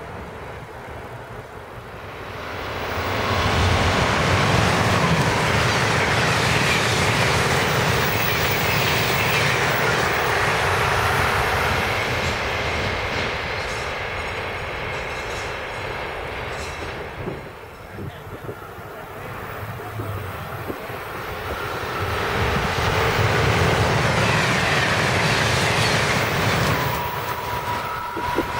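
Trains on an electrified passenger main line running past: the rush and rumble of wheels on rail builds about three seconds in, eases off past the middle, then builds again as an electric locomotive-hauled train approaches.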